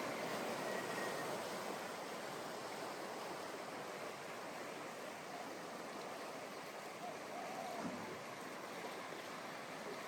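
Ocean surf washing onto a sand beach: a steady rush of breaking waves, a little louder in the first couple of seconds.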